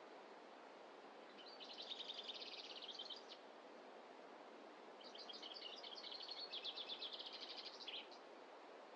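A small songbird singing two rapid, high trilled phrases, the first about a second and a half in and a longer one about five seconds in, over a steady faint background hiss.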